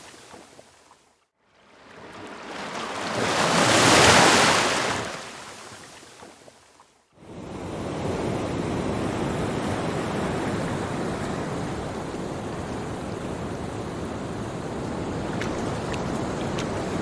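Ocean waves: one wave swells up and dies away over the first seven seconds, then after a brief silence a steady wash of surf takes over.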